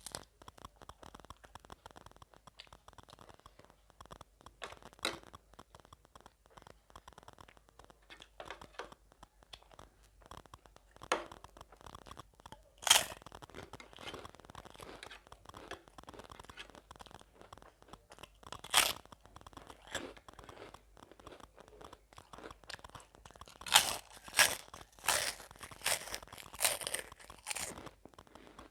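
Close-up mukbang eating sounds: crunching and chewing mouthfuls of gilo chatpate, a spicy Nepali puffed-rice snack, with sharp crunches every few seconds and a quick run of them near the end.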